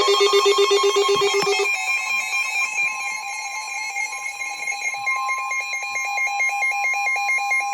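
Emergency alert tones of a weather radio warning broadcast: loud, steady electronic alarm tones with a fast pulsing warble. The pattern changes a little under two seconds in to a higher pair of tones, which holds until the tones cut off.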